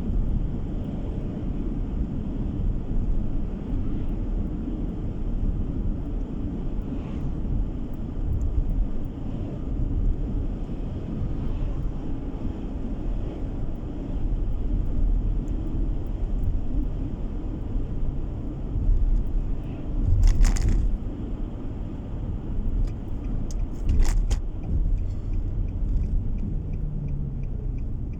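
Car driving on a road: a steady low rumble of engine and tyre noise, with two sharp knocks a few seconds apart in the latter part.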